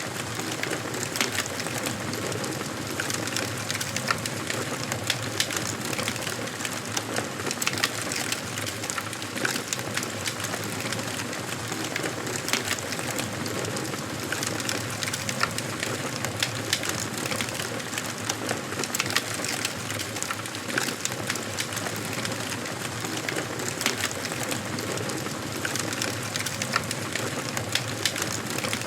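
Wood fire burning in a fireplace, crackling steadily with frequent sharp pops and snaps over a soft hiss of flames.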